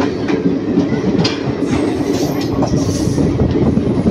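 Passenger train running on the track, heard from aboard a moving coach: a loud, steady rumble with frequent clacks and knocks of the wheels over rail joints.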